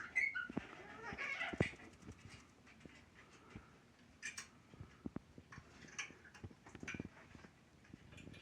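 Pet parrots calling and chattering, busiest in the first two seconds, then a few short calls spaced out, with scattered sharp clicks and taps.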